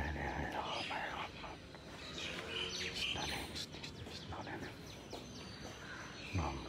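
Birds chirping and tweeting in short calls, with a dull thump right at the start and another near the end.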